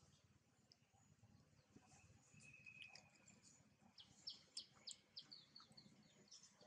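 Faint bird chirping over near silence: one short held whistle a few seconds in, then a quick run of about eight high chirps in the last few seconds.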